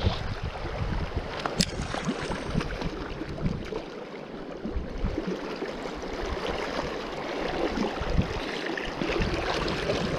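A mountain river flowing with a steady rushing hiss, with scattered short knocks and a sharp click about one and a half seconds in.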